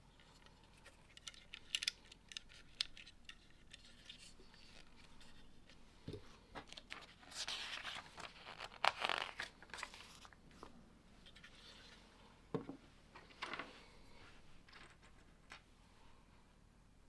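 Small plastic Lego pieces being handled and clicked together, with a few sharp clicks and a stretch of crinkling and rustling in the middle. A couple of soft knocks land on the table.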